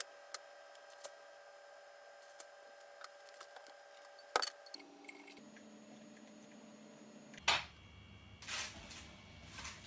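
Household handling in a kitchen: scattered light clicks and knocks, a sharper knock about four seconds in and another about seven and a half seconds in, then two short bursts of rustling near the end. Faint steady tones run underneath.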